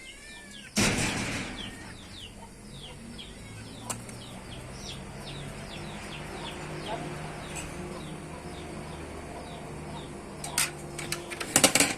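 Birds chirping repeatedly in short falling notes, with a loud rush of wing-flapping about a second in. A low steady hum runs underneath, and several sharp clicks come near the end.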